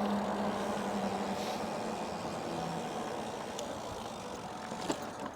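E-bike riding along: steady tyre and wind noise with a low hum that fades out about three seconds in, and a single click near the end.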